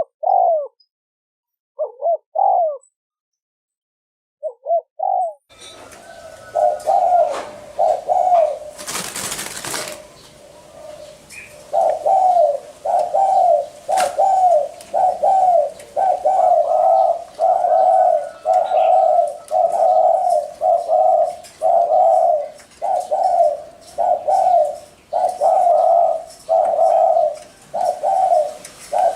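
Spotted dove giving its repeated 'gù' coo. A few separate coos come first, then a fast, even run of short coos at about one and a half a second. A brief hiss comes about nine seconds in.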